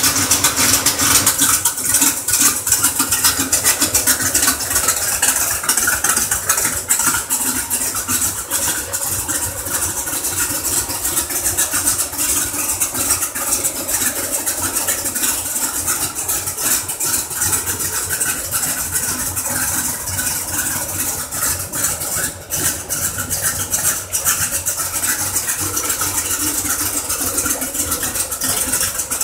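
Chevrolet Corvette C3's V8 engine idling steadily.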